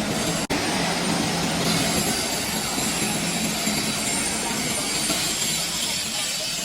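Workshop machinery running steadily, a dense mechanical noise with no clear pitch, broken by a momentary dropout about half a second in.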